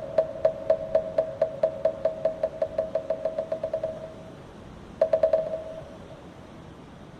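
Moktak (Buddhist wooden fish) struck with a mallet in the accelerating roll of temple chanting practice: single hollow knocks that speed up and fade away until about four seconds in, then a short quick flurry of strikes a second later.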